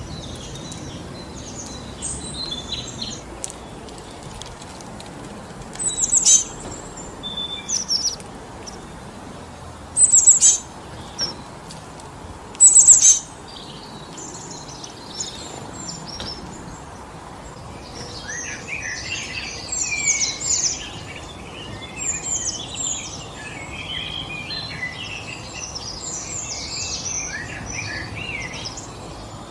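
Wind blowing steadily through forest trees while songbirds call: three loud, brief, high calls about a third of the way in, then from about two thirds of the way a busy stretch of many overlapping chirps.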